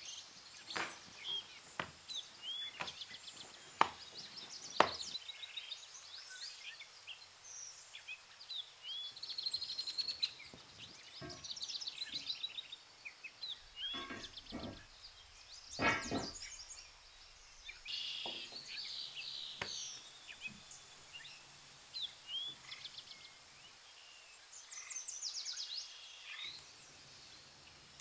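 Small birds chirping throughout. Over it come sharp knocks and thuds of kitchen work: a quick run of them in the first few seconds as parotta dough is worked on a wooden table, and another cluster around the middle as an iron griddle is handled on a wood-fired hearth.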